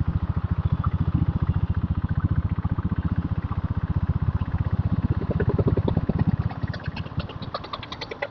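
Diesel Bullet's single-cylinder diesel engine running under way, a steady, even, rapid thump of about ten beats a second. In the last couple of seconds the low thump weakens and a sharper, higher clatter comes through.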